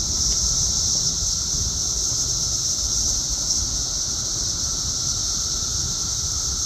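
Dense chorus of periodical cicadas: a steady, loud, high-pitched whirring drone of many insects singing together without a break.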